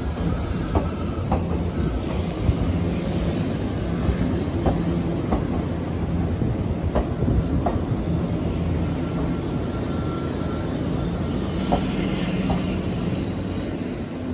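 Nankai electric commuter train rolling slowly past at close range, its wheels clacking over rail joints in pairs every few seconds over a steady low running hum. A thin high whine joins in the second half.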